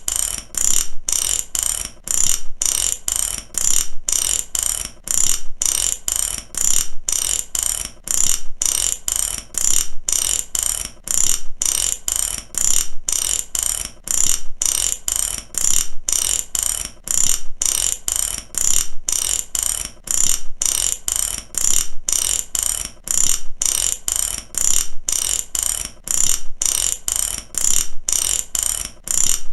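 Mechanic's ratchet wrench clicking rapidly as it is worked back and forth, in repeated strokes about one a second with brief pauses between them.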